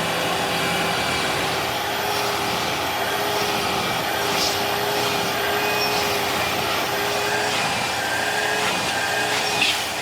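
Upright vacuum cleaner running steadily with a constant motor whine, drawing strong suction, with a short click just before the end.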